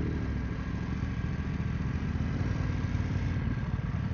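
BMW GS adventure motorcycle engine running steadily at low revs.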